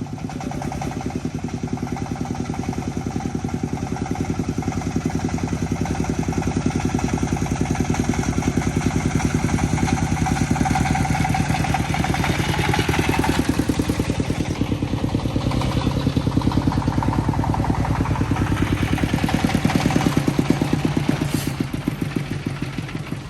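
Công nông farm truck's single-cylinder diesel engine running with a rapid, even beat. Its speed rises and falls a couple of times, around the middle and again near the end.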